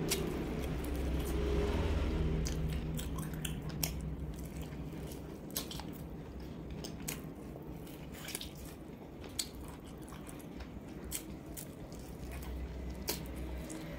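Close-miked biting and chewing of roast duck, with irregular crisp clicks and crunches from the skin and meat, over a low steady rumble.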